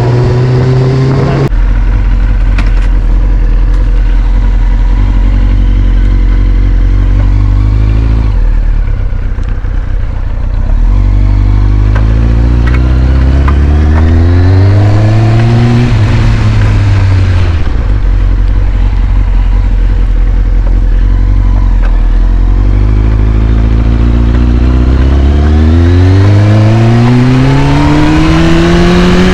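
2001 Kawasaki ZX-6R's carbureted inline-four engine idling as it warms up from a cold start. The idle drops lower about a second and a half in; near the middle the engine speed climbs slowly and falls back, then climbs again near the end.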